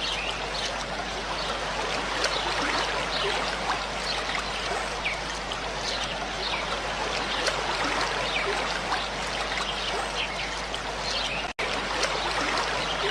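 Running water trickling and splashing steadily, with a momentary break in the sound near the end.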